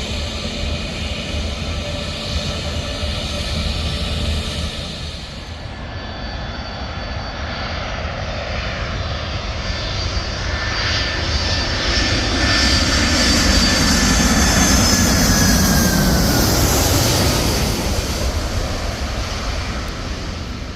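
Airliner passing low overhead on its landing approach: the engine noise builds to its loudest a little past midway, and a whine drops in pitch as the plane goes by, then fades.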